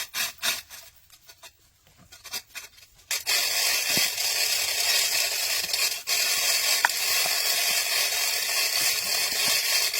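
Hand-tool scraping or rubbing strokes on the old machine for about three seconds, then a steady high-pitched hiss from a tool starts and runs on, broken once for a moment.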